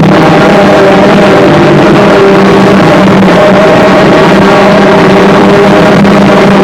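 Harsh noise music: a loud, constant wall of distorted noise with a few steady droning tones held underneath, unchanging throughout.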